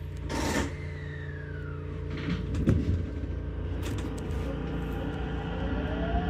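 Ichibata Electric 7000-series electric railcar pulling away, with a hiss of air about half a second in and another near three seconds. A steady hum comes in early, and the traction inverter's whine rises in pitch near the end as the train begins to accelerate.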